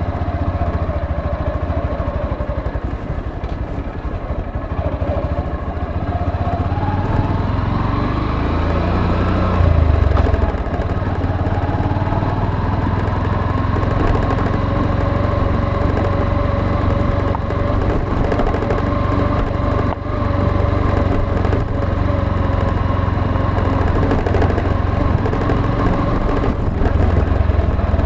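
Motorcycle engine running under way, its note climbing as it speeds up about a third of the way in, then holding steady.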